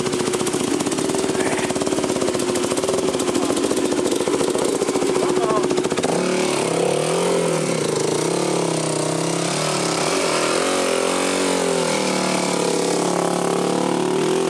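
Dirt bike engine running with a rapid, even beat, then revving up and down over and over from about six seconds in.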